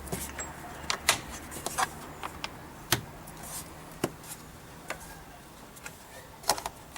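Irregular sharp clicks and knocks from hands working on the plastic air cleaner housing, such as a cover being seated and its clips latched, over a low steady hum.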